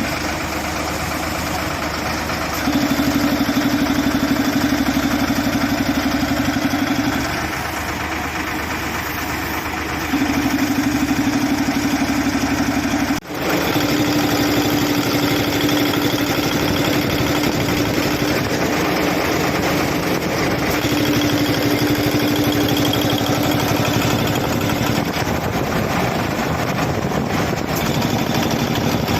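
Engine-driven air compressor running steadily, with stretches where it gets louder and takes on a steady hum, as when it comes under load. The sound drops out sharply for a moment partway through.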